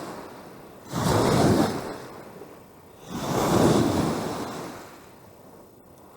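Wind-driven lake waves breaking against the shore twice, each surge swelling and then washing away, with wind buffeting the microphone.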